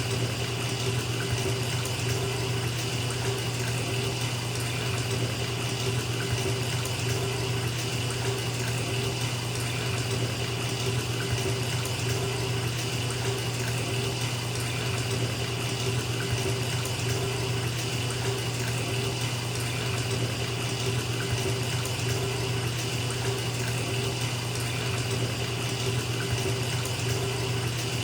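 Bathtub filling from the tap: a steady, unbroken rush of running water falling into the tub, with a low hum under it.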